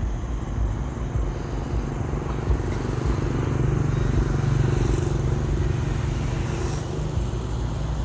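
Road traffic: a motor vehicle's engine rumbling steadily, growing louder around the middle as it passes.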